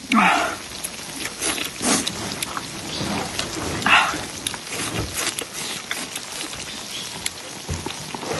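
Baojiang small tofu cubes sizzling and crackling on a grill, a dense patter of small pops. Two short high cries cut through it, one at the start and one about four seconds in.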